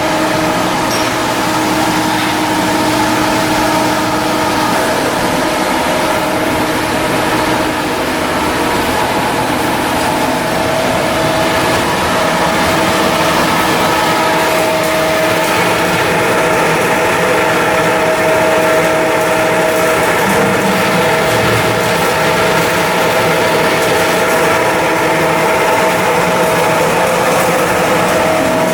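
Machinery running steadily, a constant drone of several steady tones over a rushing noise, with no clear changes.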